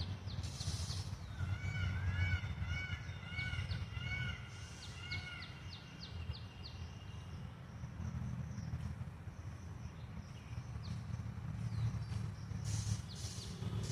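Birds calling: a bird gives a quick run of about eight short, arched calls a couple of seconds in, with thin high chirps from smaller birds around it, over a steady low rumble of wind or handling noise.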